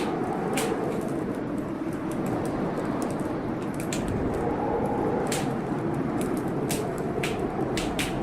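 Wood fire crackling, with sharp irregular pops every second or so over a steady rushing of storm rain.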